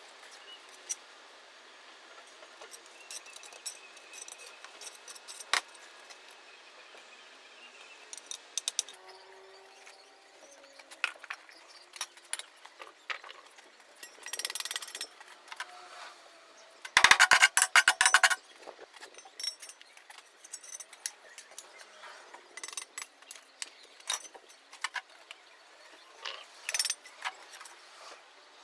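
Irregular clinks, taps and scrapes of hand tools, with a loud, dense rattling scrape lasting about a second, some seventeen seconds in.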